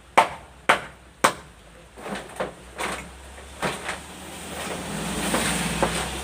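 Three sharp hammer blows on wood about half a second apart, followed by several lighter knocks. In the second half a steady noise with a low hum builds up underneath.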